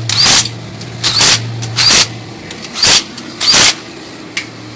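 Impact wrench running down the main bearing cap bolts on a small-block Chevy engine block in five short bursts, about one every three-quarters of a second, before the bolts are torqued to spec.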